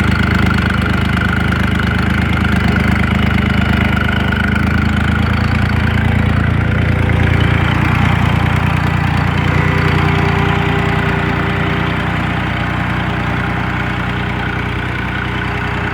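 1970 Ford 4400 tractor's three-cylinder gas engine idling steadily and evenly, running well.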